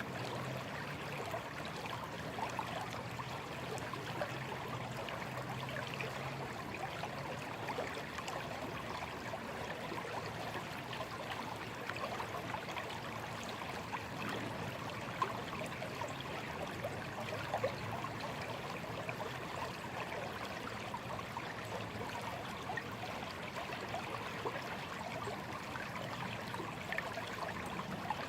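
A small stream flowing steadily over stones, a continuous babble of water with little trickles and gurgles.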